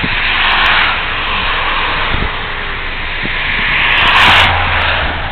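Steady rushing road and wind noise of a moving car, swelling louder about four seconds in.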